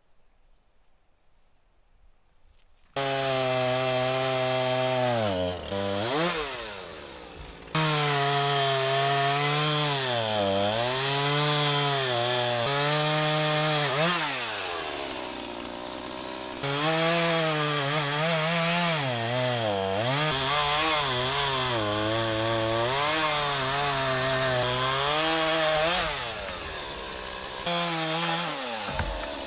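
Two-stroke chainsaw cutting wood. It starts abruptly about three seconds in, and its engine pitch sags and climbs again and again as the chain loads up in the cut and frees. The sound jumps abruptly several times, as at edits.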